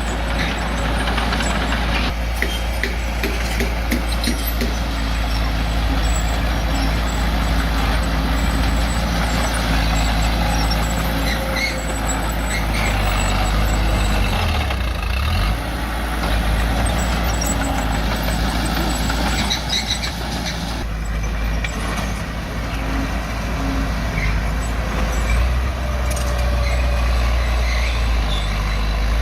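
Bulldozer's diesel engine running steadily, with its pitch dipping briefly about halfway through, and scattered metallic knocks.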